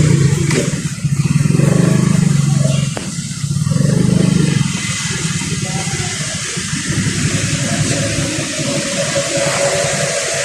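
A vehicle's engine running under way, swelling twice in the first half, over a steady rushing hiss of tyres on a rain-wet road. The hiss takes over as the engine eases off about halfway through.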